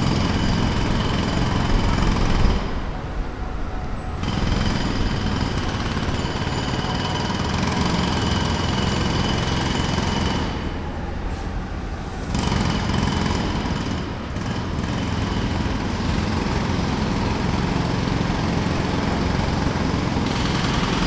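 Jackhammer hammering continuously, broken by two short pauses, about two and a half seconds in and about ten seconds in. A low rumble carries on through the pauses.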